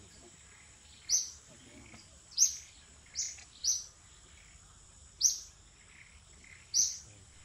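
Bird chirping: six short, high-pitched chirps at irregular intervals of about a second.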